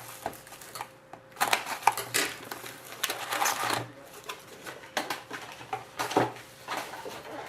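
Trading-card pack wrappers crinkling and tearing, and cards sliding and shuffling in hand, in irregular rustling bursts as hockey card packs are opened and sorted.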